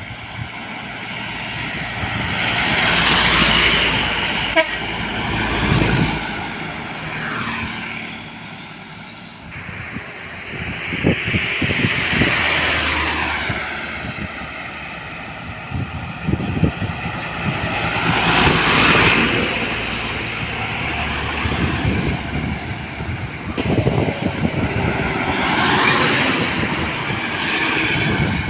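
Heavy trucks and buses passing on a road one after another. About four pass-bys each swell and fade, with the loudest points near the start, a third of the way in, past the middle and near the end.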